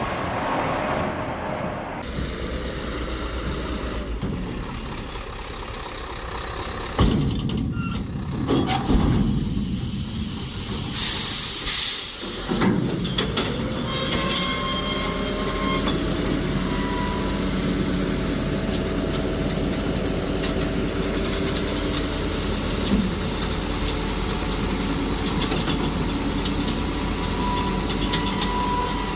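Heavy truck machinery running: a steady diesel engine hum, broken near the middle by a few knocks and a short sharp hiss, then settling into a steady drone with a whine that rises and holds.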